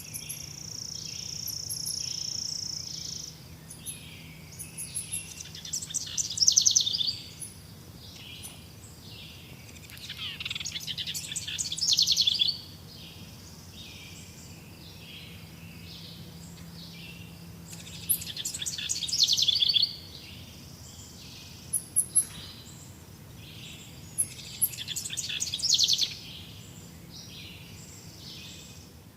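Forest birds singing: one bird repeats a loud, rapid song phrase about every six to seven seconds, over a steady background of regularly repeated high chirps. A thin, steady high note sounds for the first three seconds.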